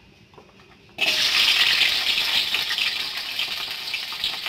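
Shallots and garlic hitting hot oil in a wok: a loud sizzle starts suddenly about a second in and slowly settles as they fry.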